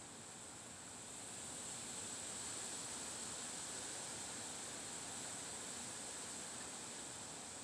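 Wind blowing steadily, a faint rushing hiss that swells slightly about a second and a half in.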